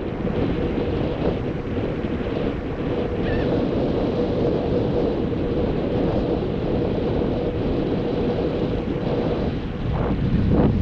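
Wind buffeting the microphone, mixed with the steady wash of surf breaking on the beach.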